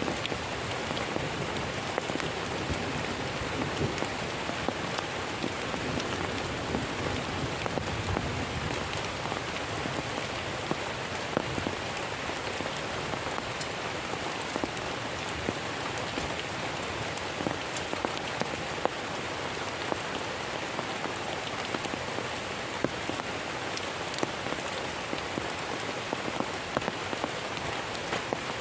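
Heavy rain falling steadily, with many sharp drop ticks scattered over the hiss.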